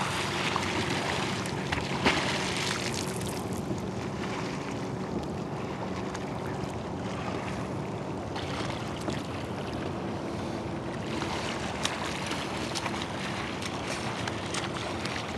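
Water washing and lapping around a small rowboat, with wind on the microphone and a few sharp knocks.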